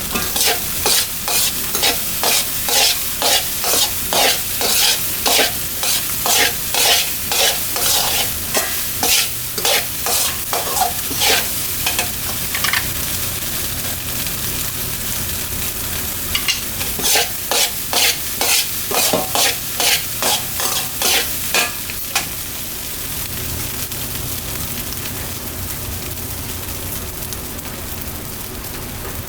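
Fried rice sizzling in a hot pan while a spatula scrapes and tosses it in quick strokes, about two a second. The strokes stop for a few seconds partway through, start again, then stop near the end, leaving only the steady sizzle.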